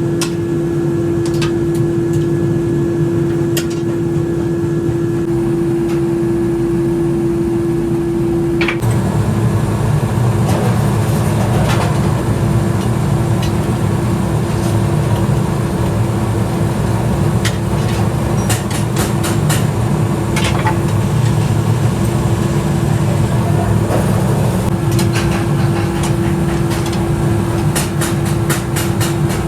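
Workshop machinery running steadily: a low rumble with a constant motor hum, and scattered sharp clicks or taps of metal. The rumble gets heavier about nine seconds in.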